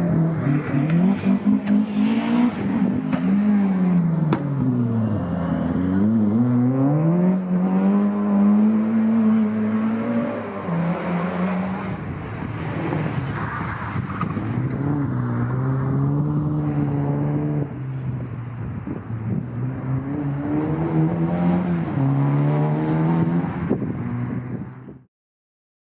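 Historic rally car engines at full throttle, the pitch climbing and dropping again and again as they rev up through the gears and lift off. The sound cuts off abruptly near the end.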